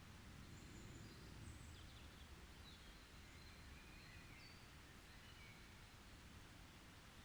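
Faint forest ambience: a few short, high bird chirps and whistles, mostly in the first five seconds, over a low, steady background rumble.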